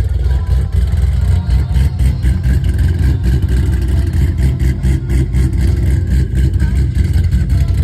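A car engine running nearby: a loud, uneven low rumble.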